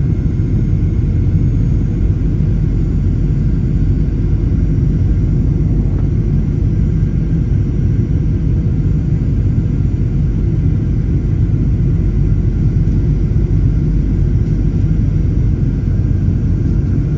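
Steady low rumble inside the cabin of a Boeing 737-800, unchanging throughout.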